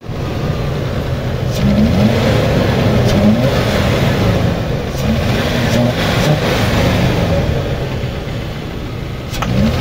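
Toyota Prado's 3.4-litre four-cam 24-valve V6 running, revved by hand at the throttle linkage several times, each rev a short rise in pitch. The engine is missing (misfiring), which the mechanic traces to a torn air-intake pipe and a dirt-fouled air flow sensor.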